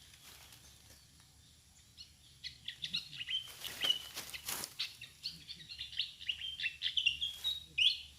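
Fantail giving a rapid series of short, high squeaky chirps, starting about two seconds in, with a couple of brief rustles among them.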